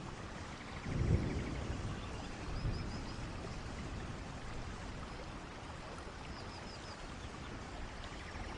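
Steady rainfall, with a brief low rumble of thunder about a second in and a smaller one soon after. A few faint high chirps sound twice in the background.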